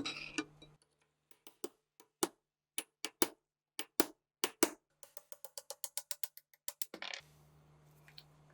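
Sharp clicks and knocks of metal gun parts being handled. They come irregularly at first, then in a quicker run of about six a second for the last couple of seconds.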